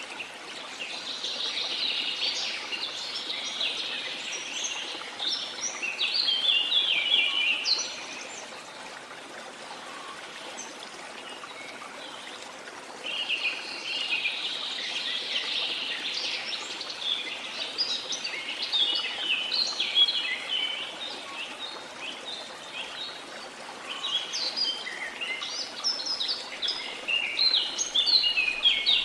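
Birds singing and chirping in three busy bouts with quieter gaps between, over a steady rush of waterfall water.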